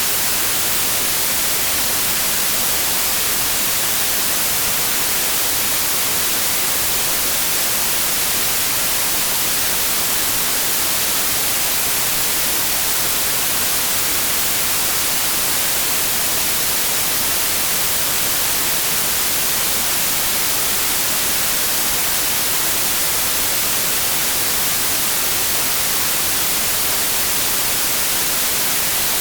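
Synthetic white noise: a steady, even hiss, strongest in the treble, that does not change.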